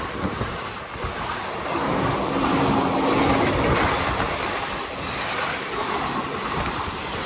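Indian Railways express train running along the track, a steady rumbling rattle of the moving coaches.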